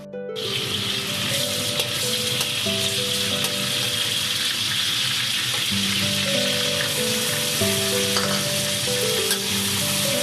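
Chopped scallions sizzling in hot oil in a wok, the sizzle starting suddenly just after the start. Fresh pork is then tipped in and stir-fried with a spatula, and the frying goes on steadily over soft background music.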